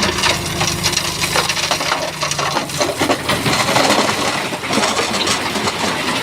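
Large stones grinding and clattering against one another as a Shantui bulldozer's blade pushes them, over the dozer's steady engine drone, which fades about two and a half seconds in.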